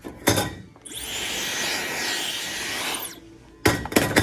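A steady spray hiss lasting about two seconds, with a sharp knock just before it and a few sharp knocks near the end.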